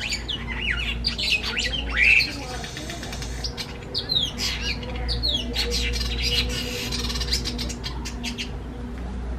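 Several birds chirping and calling in quick, overlapping, downward-sweeping notes, with one loud call about two seconds in, over a steady low hum.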